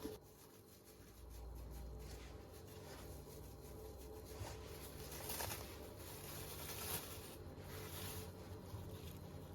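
Soft handling noises of kitchen food preparation: light rustling and tapping, with two louder brushing sounds about five and a half and seven seconds in, over a faint steady hum.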